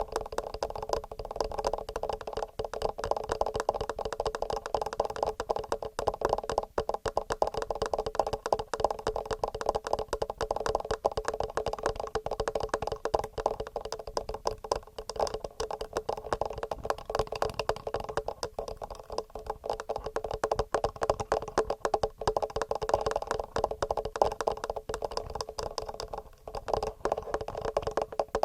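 Fingernails tapping fast and continuously on a TASCAM recorder's microphone, a dense stream of quick clicks with only a brief break near the end.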